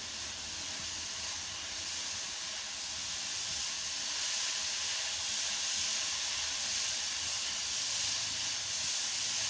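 Grated white radish frying in hot oil in a nonstick wok, sizzling with a steady hiss as it is stirred, growing slightly louder over the stretch.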